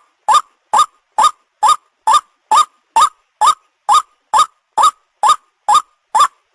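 White-breasted waterhen (ruak-ruak) lure call, one short rising note repeated steadily at about two a second, the same note over and over.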